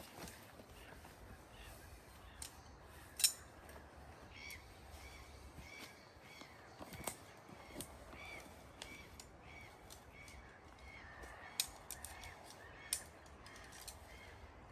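A bird calling over and over in short, arched notes, about two a second, from about a third of the way in. A few sharp clicks or snaps cut across it, the loudest about three seconds in.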